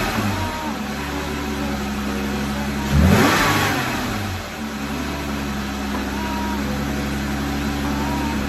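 Jeep Wrangler JL's 3.6-litre V6 idling with a freshly fitted S&B cold air intake, revved once about three seconds in: the pitch rises sharply and falls back to idle within about a second.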